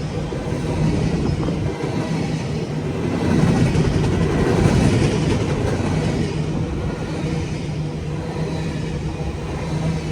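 CSX freight train rolling past, its wheels running steadily on the rails.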